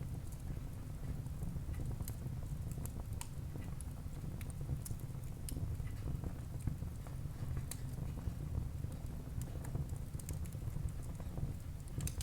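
Wood fire burning in a fireplace: a steady low rumble of the flames with irregular sharp crackles and pops from the burning logs, several a second at times.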